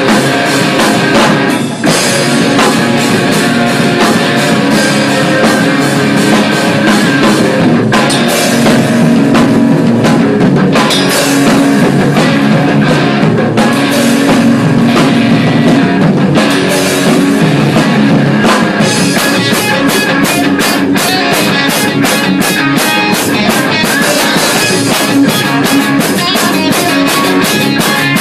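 A rock band playing loud: a drum kit and electric guitars together. There is a brief break about two seconds in, and from about two-thirds of the way through the drum hits come much faster.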